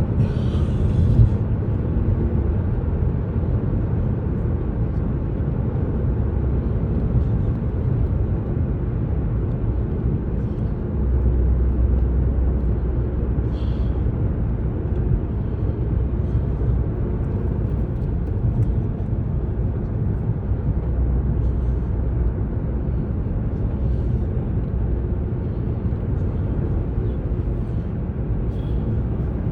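Steady low road and engine noise of a car cruising on a highway, heard from inside the cabin, with a low drone that gets stronger from about eleven seconds in.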